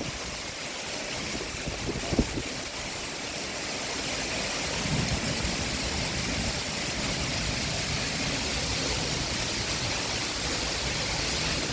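Heavy summer rain pouring steadily as a dense, even hiss, with a short knock about two seconds in. It grows a little louder and fuller from about four seconds in.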